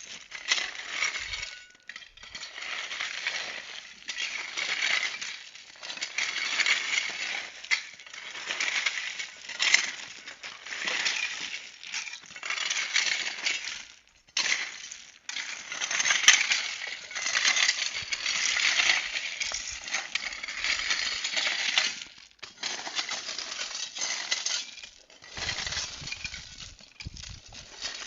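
Loose gravel being worked with a hand tool: stones clinking and crunching against the metal and each other in repeated strokes.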